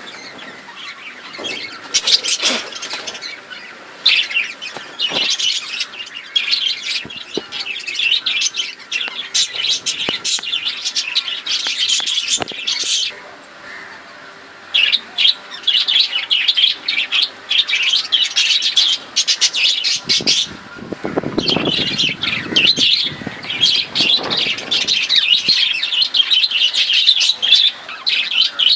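A flock of budgerigars chattering and chirping continuously, with a brief lull about halfway through.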